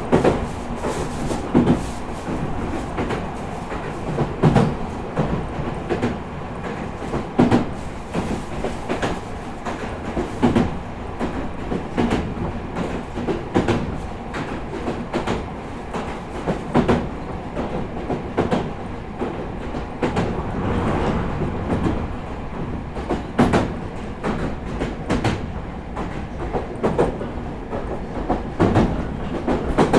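Meitetsu 4000 series electric train cruising, heard from inside the passenger car: a steady rumble of wheels on rail, broken by frequent irregular clacks as the wheels pass over rail joints.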